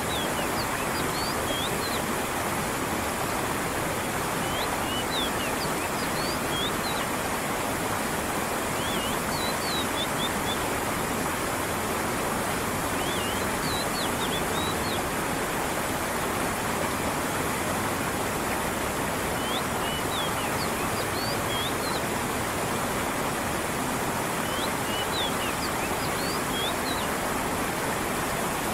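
Creek water running and falling in a steady rush, with a small bird's short high chirping phrases recurring every four to five seconds.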